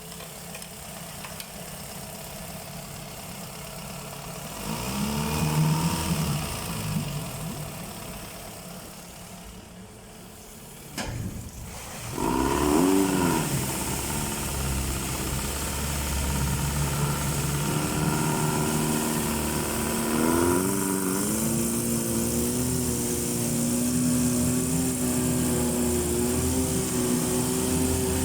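Yamaha F100AET four-stroke outboard motor running. It is revved up and back down twice in the first half, with a sharp click before the second rev. It then settles into a steady raised speed that steps up once about two-thirds of the way through.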